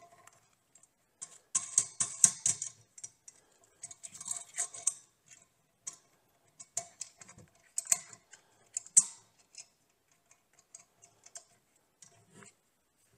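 A sander being fitted and clamped into a tilting sander base: bunches of sharp plastic and metal clicks, knocks and short rattles from handling, thinning to a few light ticks in the last few seconds.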